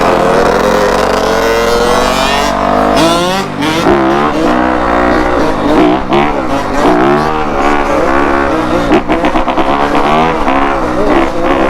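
2021 Yamaha YZ250F's single-cylinder 250cc four-stroke engine revving hard under throttle, its pitch climbing and dropping over and over as the dirt bike is ridden.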